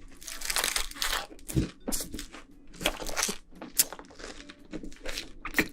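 Close-miked chewing of a big mouthful of pizza, with irregular crunches and sharp clicks from the crust.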